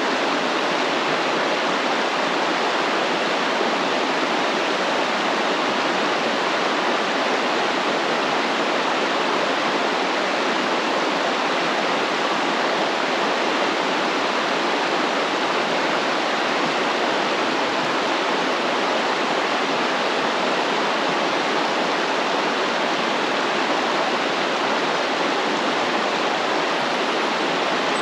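A stream flowing steadily: a continuous, even rush of running water with no rise or fall.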